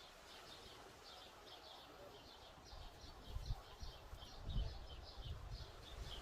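Small birds chirping in a quick, steady series of short high calls, several a second. From about three seconds in there are low rumbling thumps underneath.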